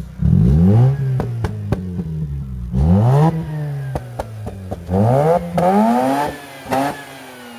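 Mazda RX-8's two-rotor rotary engine with an aftermarket intake and exhaust, revved three times and dropping back toward idle after each, with a short blip near the end. Sharp pops sound between the revs.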